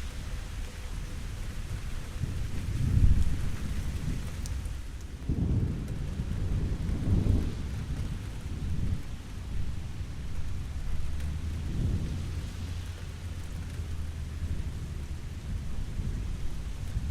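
Steady rain with rumbling thunder swelling up several times, loudest about three seconds in.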